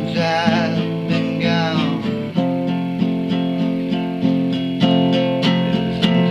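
Acoustic guitar strumming steady chords, with a wavering sung note over it in about the first two seconds.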